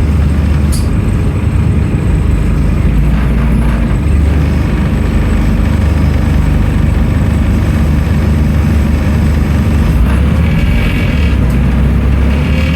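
Scania N310UA articulated city bus's diesel engine running, a steady low drone whose note shifts slightly about four seconds and again about ten seconds in.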